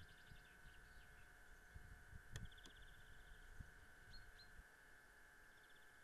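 Near silence with faint bird calls: a short rapid trill about two and a half seconds in, then two brief rising chirps a little later, over a faint steady hum and soft low rumbles.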